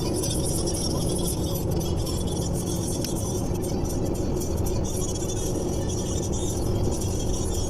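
Steady car engine and road noise heard from inside a moving car's cabin.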